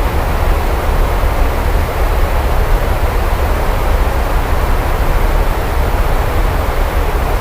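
Rain falling steadily: an even hiss with a constant deep low rumble underneath.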